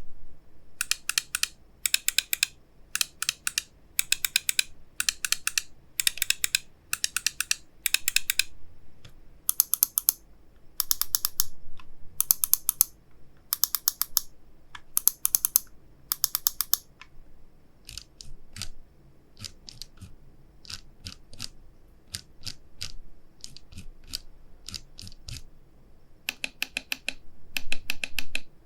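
MCHOSE AX5 Pro Max gaming mouse buttons being clicked: rapid bursts of crisp clicks, then slower, fainter single clicks for several seconds, then quick bursts again near the end.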